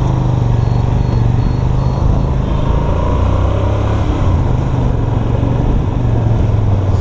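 Motorcycle engine running at a steady, fairly high speed while riding, with a dense rush of wind noise over it.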